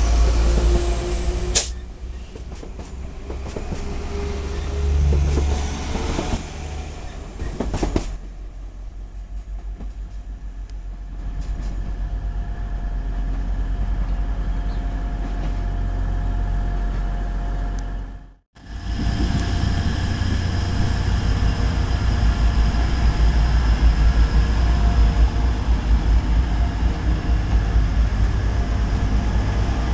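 Diesel multiple-unit trains at a station platform. In the first part a London Midland unit pulls away, and a second approaches slowly with a steady engine hum. From about two-thirds in, a First Great Western diesel train passes close by, a loud steady rumble of engines and wheels that slowly builds.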